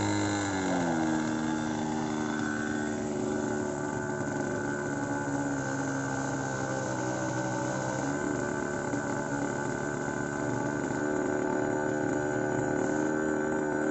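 OS 46 two-stroke glow (nitro) engine of a model airplane running with a high, buzzing, chainsaw-like note. Its pitch falls over about the first second, then holds steady.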